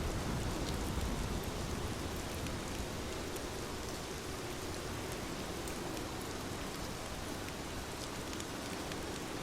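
Heavy rain falling steadily, a dense even hiss of drops. A low rumble of distant thunder dies away over the first two seconds.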